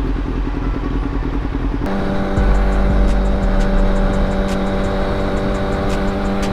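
Kawasaki Ninja ZX-6R inline-four engine running. About two seconds in the sound changes suddenly from a quick pulsing to a steady droning tone with a deep low rumble beneath it.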